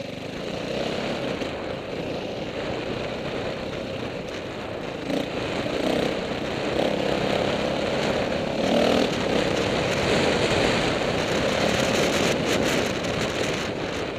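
Dirt bike engine running, swelling louder about six and nine seconds in.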